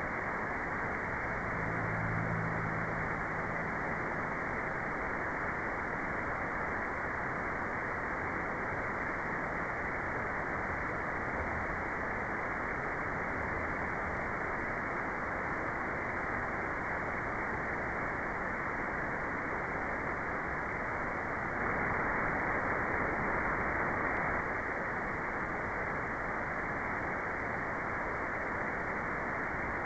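Steady generated white noise, an even hiss with its top end cut off, so it sounds duller than full-range white noise. It swells slightly louder for a couple of seconds about three-quarters of the way through.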